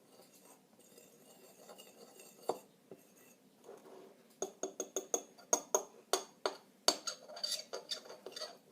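Utensil clinking and scraping against a mixing bowl while stirring a slime mixture: soft scraping at first, then a quick run of clinks, about three or four a second, from about halfway through.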